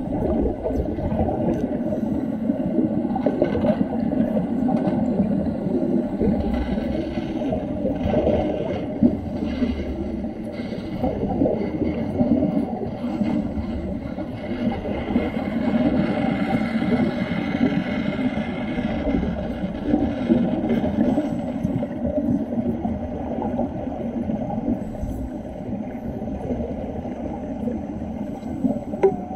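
Continuous underwater bubbling and rumbling, a churning low noise with no clear rhythm.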